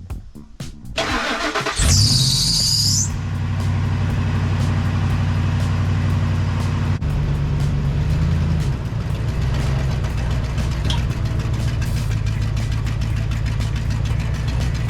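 2002 Ford F-150's 5.4 V8 starting, with a brief high whine about two seconds in as it catches, then running at a steady idle that changes pitch slightly around the middle as it settles.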